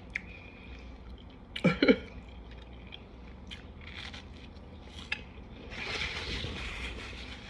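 Eating sounds: scattered light clicks of cutlery on a dish and chewing, with a short vocal sound about two seconds in and a soft rustling stretch about six seconds in.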